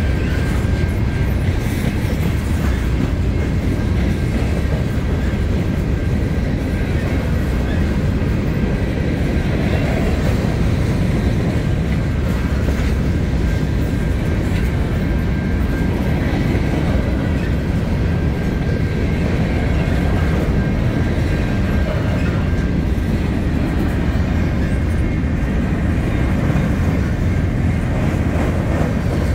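CN mixed freight train's cars rolling past on the rails: a steady, loud low rumble with wheels clacking over the rail joints and a faint high whine over it.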